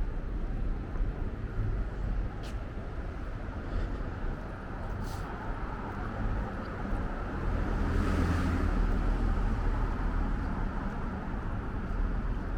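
City street ambience: a steady low rumble of street noise that swells for a couple of seconds just past the middle, with a couple of faint sharp clicks earlier on.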